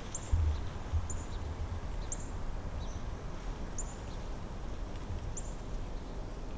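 A small bird repeating one short, high, thin chirp about once a second. Low rumbling from wind or handling runs underneath, with a louder bump about a third of a second in.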